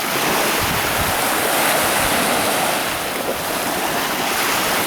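Sea waves breaking and washing on the shore in a steady rush, with some wind on the microphone.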